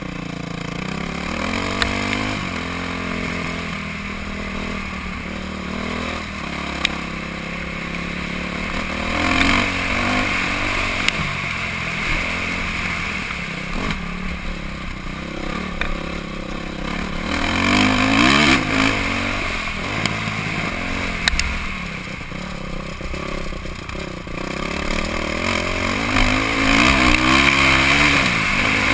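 Honda CRF450R's single-cylinder four-stroke engine revving up and dropping back again and again as the bike is ridden around a motocross track. A few sharp knocks cut through the engine sound.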